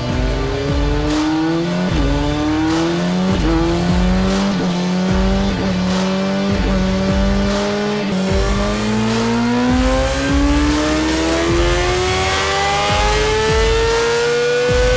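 Honda CBR600RR's inline-four engine under load on a dyno, holding a steady speed and then revving smoothly and continuously higher through the second half, in a power-test run after an ECU swap.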